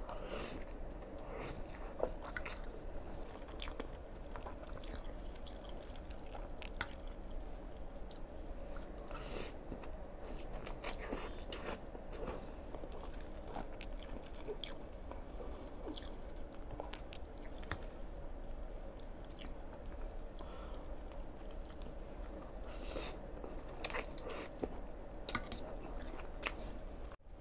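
Close-miked chewing of a mouthful of Nongshim Chapaghetti black bean instant noodles, with many small wet mouth clicks.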